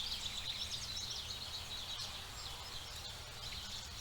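Forest ambience of small songbirds chirping and twittering in quick high notes, busiest in the first second and thinning out after, over a faint steady background.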